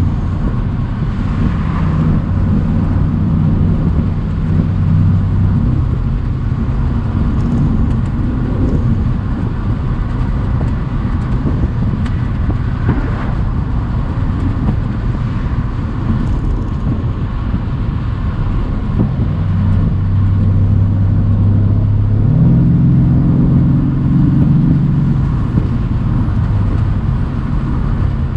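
Mercedes-AMG C63 convertible's twin-turbo V8 running on the move with the top down, its engine note over a steady rush of road and wind noise. Near the end the engine picks up revs for a few seconds, getting louder, then eases back.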